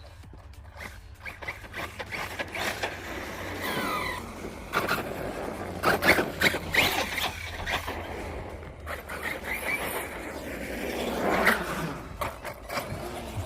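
Electric RC stunt trucks running at a skatepark: short whines from the motors rising and falling with the throttle, tyres scrabbling, and a series of sharp clattering impacts as the trucks land and bounce.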